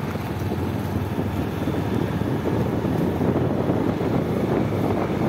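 Wind buffeting the microphone on a moving motorcycle, mixed with the rumble of the engine and road noise.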